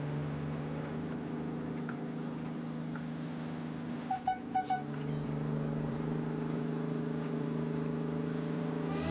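Yarder engine running steadily under load as the crew hauls a heavy log, with three short high beeps about four seconds in.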